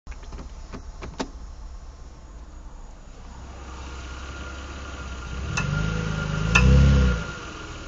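2007 Mitsubishi Eclipse running, with a few sharp clicks in the first second. About two-thirds of the way in, the engine takes load as the car pulls away, and two more sharp clicks come about a second apart. The clicking under load is the sign of a worn drive axle (CV joint) going out; it stopped once both drive axles were replaced.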